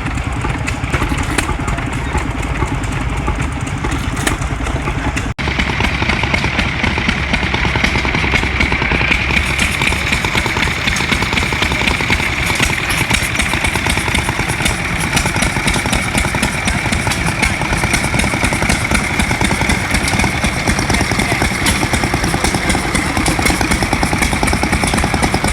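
Old engines running at a steady speed with a fast, even clatter and a steady high whine; the sound cuts abruptly to another running engine about five seconds in.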